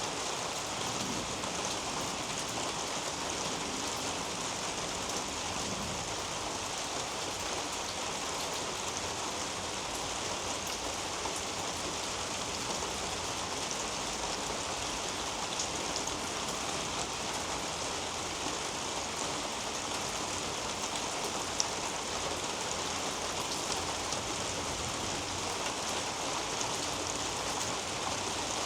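Steady rain falling on garden foliage, as an even hiss with now and then a single louder drop.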